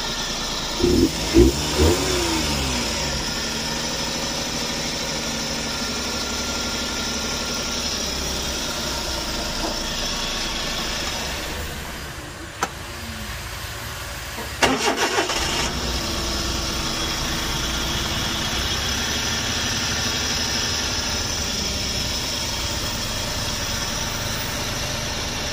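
Suzuki DA64V van's small three-cylinder engine running, blipped a few times about a second in and again about fifteen seconds in, otherwise running steadily. It is running again after flood water got into it; cylinder one was found low on compression.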